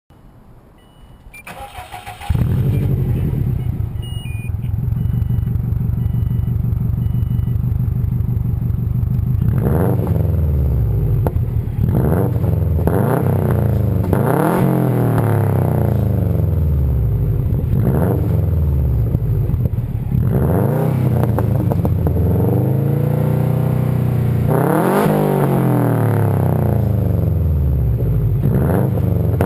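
Subaru WRX turbocharged flat-four boxer engine through a straight-pipe axle-back exhaust with the muffler deleted: it starts about two seconds in, idles steadily, then from about ten seconds in is revved again and again, each rev climbing and falling back.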